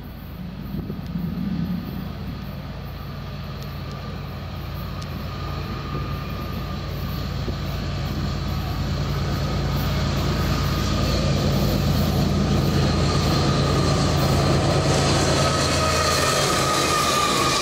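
A train approaching and growing steadily louder over the first ten seconds, with a steady low hum and a thin high whine that slides slightly lower near the end.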